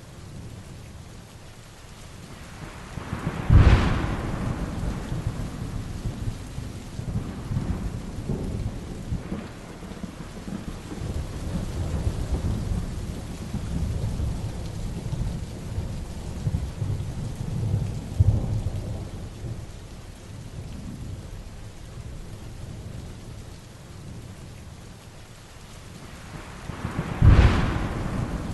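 Heavy rain falling steadily with thunder. Two sharp thunderclaps, one about three and a half seconds in and another near the end, with low rolling rumbles of thunder between them.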